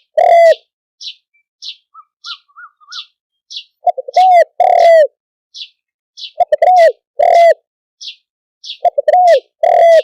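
Spotted dove cooing: repeated phrases of a couple of short notes followed by two longer arching coos, one phrase about every two and a half seconds. Another small bird gives short high chirps about twice a second between the phrases.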